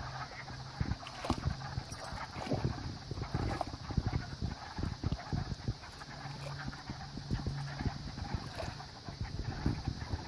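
Chorus of many frogs calling at once: a dense, irregular clatter of short knocking, clucking calls, with a low steady drone underneath at times.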